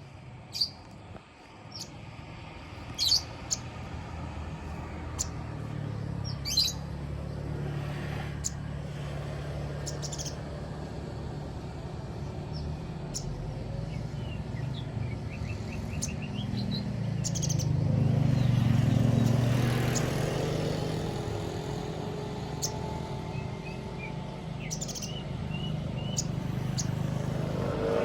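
Sogon bird calling: short, sharp, high chirps at irregular intervals, used as a lure call to stir other sogon birds into song. Beneath them runs a low engine-like rumble that swells for a few seconds about two-thirds of the way in.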